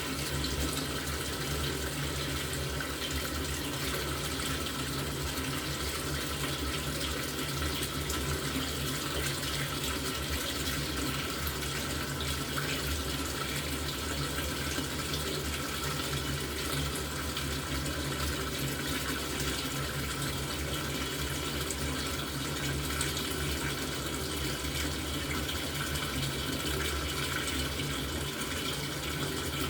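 LG top-loading washing machine filling its drum with water: a steady rush of inflowing water with a low hum, unchanging throughout.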